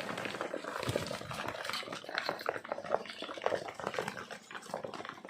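Racing pigeons stirring in their loft: an irregular run of wing flutters, scrapes and taps.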